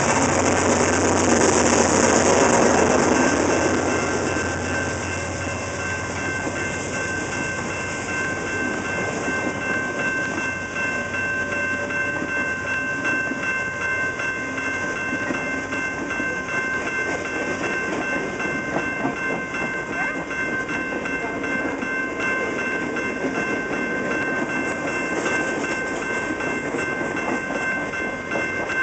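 Canadian National freight train rolling past, switching tracks over a crossover. The locomotive's engine hum is loudest in the first few seconds, then the cars roll by with a clickety-clack of wheels over the rail joints and switch, under steady high ringing tones.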